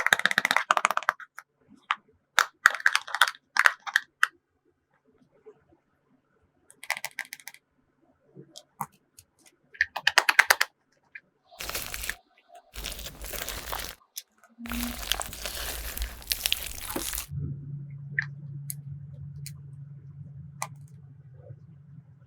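Clear slime being squished and stretched by hand, giving clusters of quick wet pops and clicks. In the middle there are a few seconds of dense crinkly rustling, and a low steady hum in the last few seconds.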